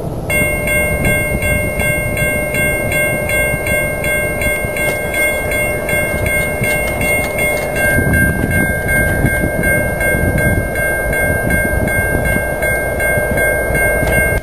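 Train rumbling past a grade crossing while the crossing bell rings steadily, about two strikes a second.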